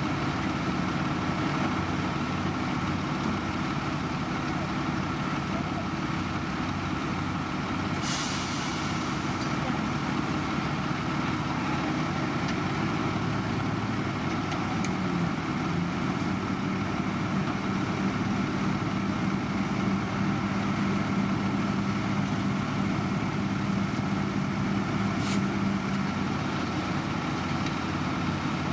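Heavy diesel road-construction machinery running steadily, with a short hiss about eight seconds in and a steady hum that comes in about halfway and stops near the end.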